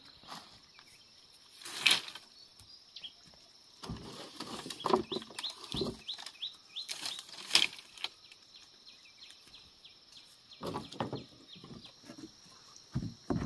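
Birds chirping, with a quick run of short chirps around the middle, over a steady high-pitched hum, and a few sharp rustles or knocks.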